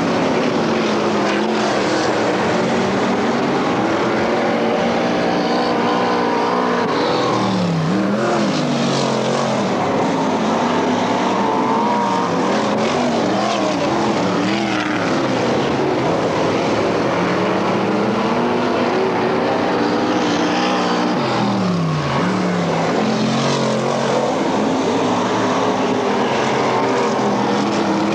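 Dirt-track race car engines running at full race, several at once, their pitch repeatedly dipping and climbing back every several seconds.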